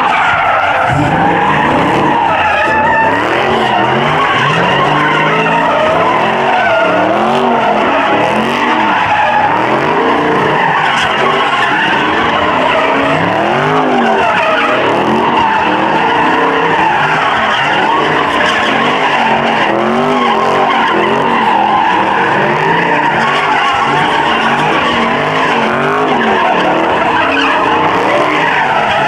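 Car engine revving up and falling back over and over while the rear tyres squeal without let-up: a muscle car doing a burnout or donuts.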